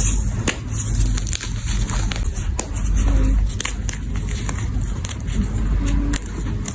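Gym chalk being crushed and crumbled: irregular crunchy crackles over a heavy low rumble.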